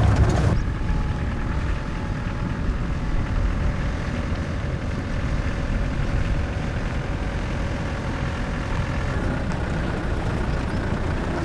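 Off-road vehicle driving slowly along an unsealed lane: steady engine and tyre rumble.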